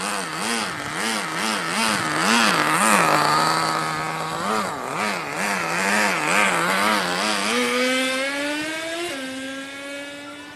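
Small nitro engine of an HSP Backwash RC buggy running, its pitch wobbling up and down about twice a second, then climbing to a higher steady note for the last few seconds as it fades away.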